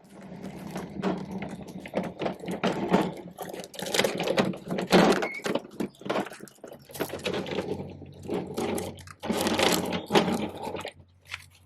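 Hard plastic toy garbage truck being handled, its parts clicking, knocking and scraping in a quick, irregular clatter. A faint low hum starts about two-thirds of the way through.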